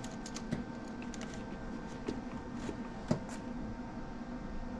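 Steady background hum with a few light clicks and knocks, the sharpest about three seconds in.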